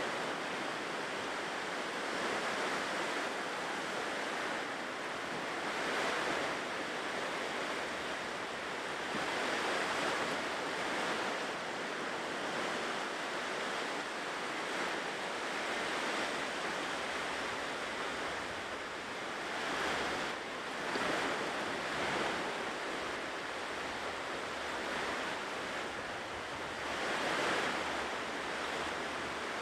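Ocean surf breaking on a shore, a continuous wash of waves that swells and eases every few seconds.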